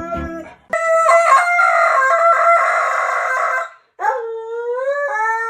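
A dog howling: two long, drawn-out howls, the first breaking in suddenly and held for about three seconds, the second sliding up in pitch and then holding steady.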